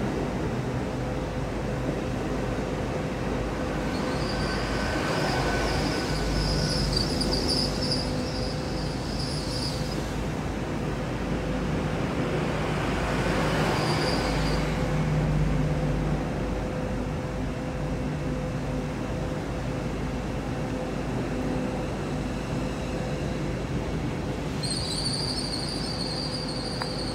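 Train at a station platform: a steady running hum, with high-pitched wheel squeal from about four to ten seconds in, briefly again around fourteen seconds, and once more near the end.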